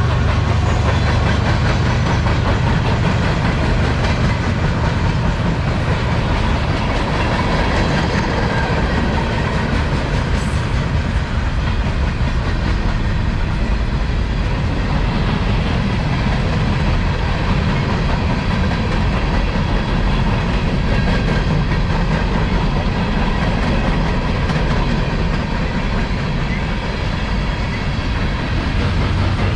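Freight cars of a CSX manifest train rolling past, a steady rumble with the clickety-clack of steel wheels over the rails.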